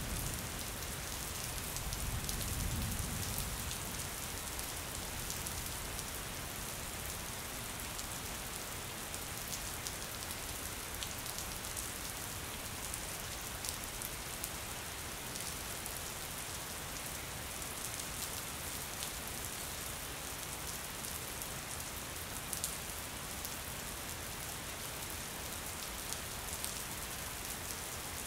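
Steady rain falling on window glass, with many fine drop ticks. A soft low rumble swells briefly about two seconds in.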